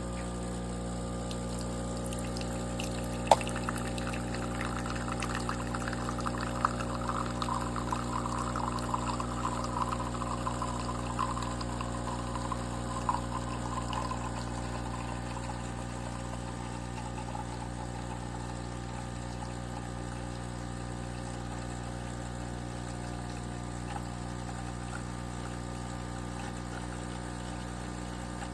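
De'Longhi Dinamica automatic espresso machine's pump humming steadily while liquid pours and trickles into the cup, the pouring strongest in the first half and then fading away. A sharp click sounds a few seconds in.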